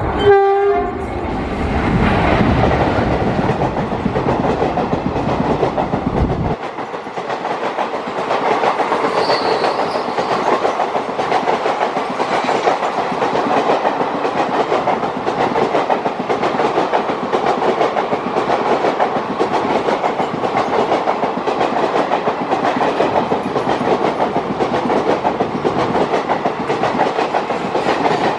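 Electric-locomotive-hauled passenger train passing close by, its coaches clattering steadily over the rail joints. There is a short falling tone right at the start.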